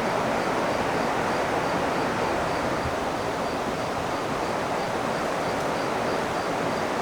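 Steady rushing of river water, an even wash of noise, with a faint high chirp repeating about twice a second.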